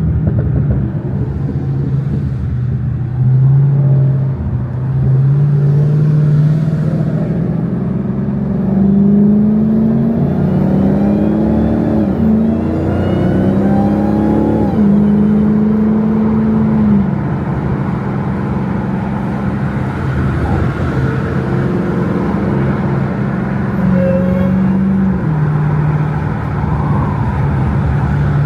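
Dodge Hellcat's supercharged V8 and road noise heard from inside the cabin while driving: a steady low drone whose pitch steps up and down as the revs change.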